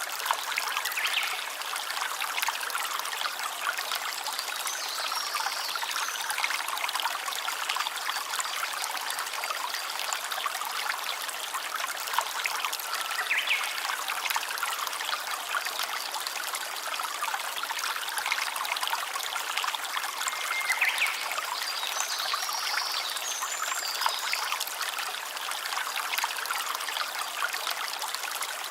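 Small stream of water trickling and splashing steadily, with no breaks.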